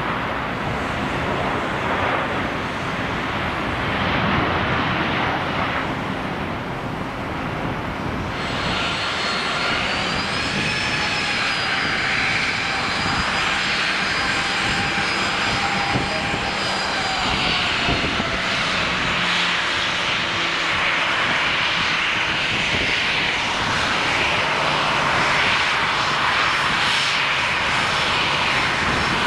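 Jet airliner engines passing, a loud steady rush over which high whining tones come in about eight seconds in, rise a little and then slowly fall away.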